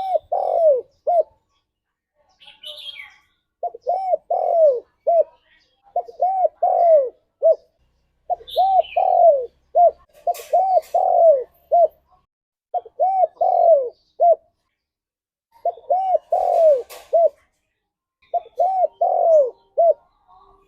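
Spotted dove (tekukur) cooing: a phrase of three or four arched coos, repeated about eight times with short pauses between. Faint higher chirps of another bird sound now and then.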